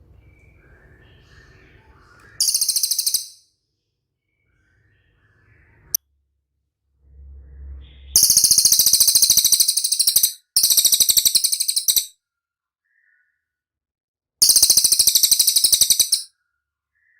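Cililin bird singing in rapid, very high-pitched trills: four bouts of one to two seconds each, the first about two seconds in. A single sharp click comes about six seconds in, and a brief low rumble just before the second trill.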